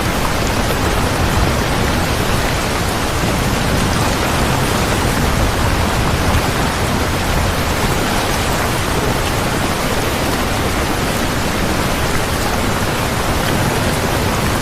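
Steady, dense rainfall: an even rushing hiss of rain without breaks or distinct drops.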